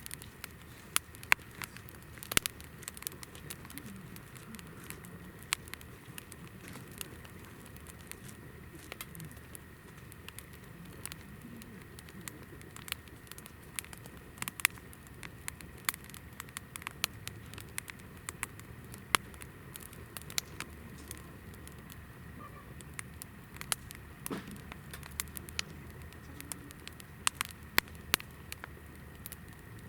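Hinoki wood fire crackling, with sharp irregular pops and snaps over a low hiss.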